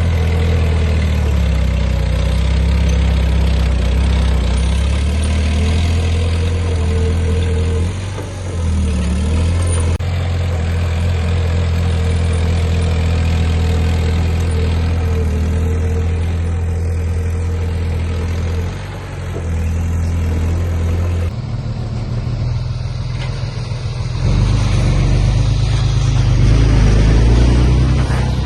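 Diesel engine of heavy earthmoving equipment running, with strong low engine tones. The sound changes abruptly about ten and twenty-one seconds in and grows louder a few seconds later.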